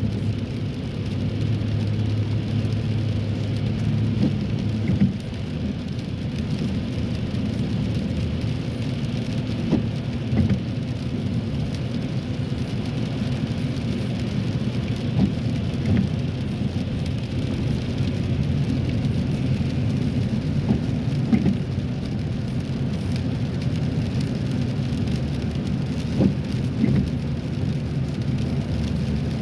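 Steady road noise inside a car's cabin, driving on wet roads in a cold rain: a low rumble of tyres with a hiss of rain and spray, and scattered light ticks.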